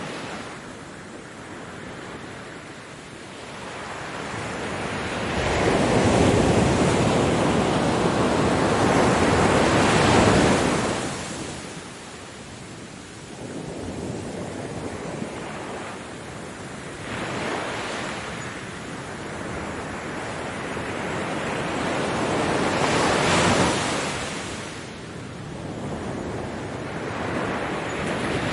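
Ocean waves breaking on a beach, the surf swelling and ebbing in slow surges. The largest wave builds from about five seconds in and washes for several seconds, followed by smaller breakers near the middle and later on.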